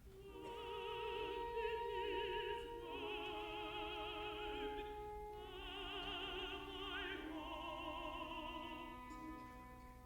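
Contralto voice singing sustained, vibrato-laden phrases with orchestral accompaniment.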